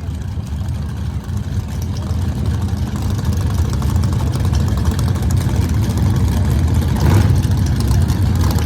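Car engine running with a steady low rumble that grows gradually louder.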